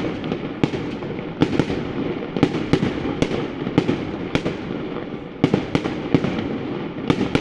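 Fireworks display going off: a continuous dense crackle with many sharp bangs, sometimes several a second.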